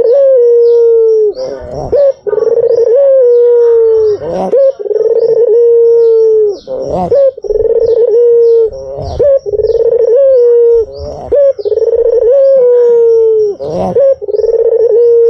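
White puter dove (domestic ringneck dove) cooing: long, low coo notes about a second and a half each, repeated in a steady series, each dropping slightly in pitch at its end.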